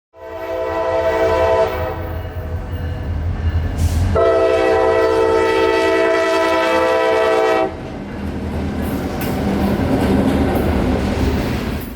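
Diesel freight locomotive's multi-note air horn: a short blast, then a longer one about four seconds in, over the low rumble of the engines. After the horn stops, the rumble and rolling noise of the passing train carry on and cut off suddenly at the end.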